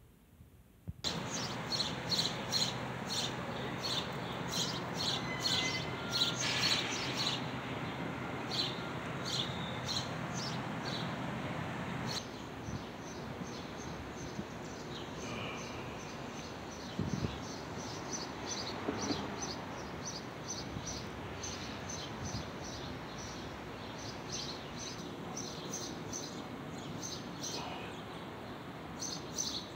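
Birds chirping in short, repeated high calls over outdoor street ambience, with a steady low hum that stops abruptly about twelve seconds in.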